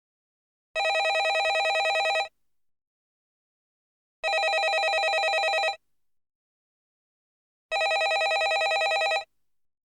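Landline telephone ringing: three rings in a regular pattern, each about a second and a half long with a fast trill, separated by about two seconds of silence.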